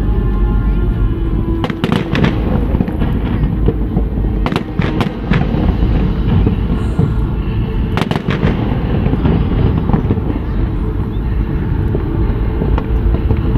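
Fireworks display: a continuous low booming of bursting shells, with clusters of sharp crackling reports about two seconds in, around five seconds in and at about eight seconds.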